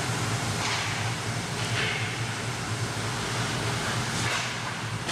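Ice hockey skates scraping and carving the rink ice in several short scrapes, over a steady low hum of the arena.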